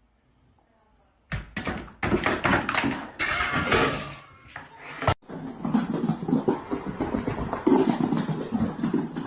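A run of knocks and thuds starting about a second in, then a person's voice.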